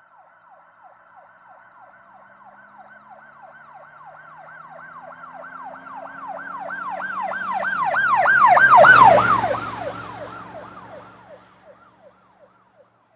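Emergency vehicle siren in a fast up-and-down yelp, with an engine beneath, passing by: it grows louder to a peak about nine seconds in, then drops in pitch and fades away.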